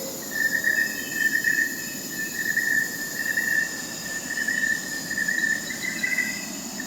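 Night chorus of crickets: a steady, pulsing high trill, with fainter, higher-pitched insect trills over it.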